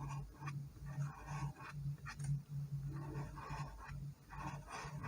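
Faint scratching of a colouring tool on paper in short, repeated strokes, as the outline around the spots is traced and coloured in.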